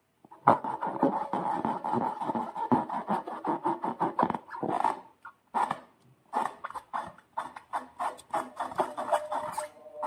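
Slime and balloon rubber being squeezed and handled: a fast run of wet squelches and small pops over a squeaky rubbery tone, stopping briefly about halfway through.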